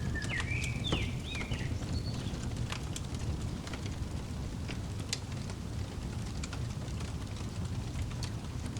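Fireplace fire crackling, scattered sharp pops over a steady low rumble, with a few short bird chirps in the first two seconds.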